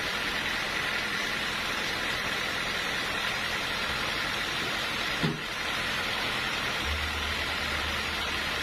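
Sawmill machinery running with a steady noise, with a short knock about five seconds in and a low hum joining near the end.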